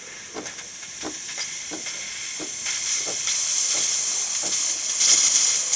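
DeLonghi Magnifica espresso machine's steam wand hissing as steam comes through, building up in strength over the first few seconds and loudest about five seconds in, with faint irregular pops. The steam function is working normally after a tune-up.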